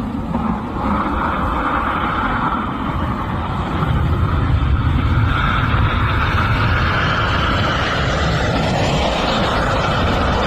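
Jet engine noise from a Boeing 737-800 airliner, heard in amateur video footage being played back: a loud, steady rushing noise with a band in the middle whose pitch shifts a little near the end.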